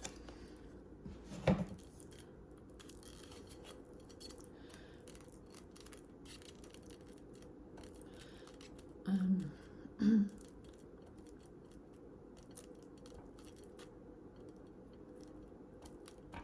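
Faint small clicks and scrapes of food being handled with a utensil over a steady low room hum. There is a sharper click about a second and a half in, and two short murmured voice sounds about two-thirds of the way through.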